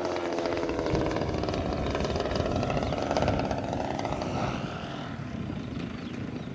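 Radio-control model plane's motor and propeller droning in flight, fading as the plane draws away or throttles back, over gusty wind noise rumbling on the microphone.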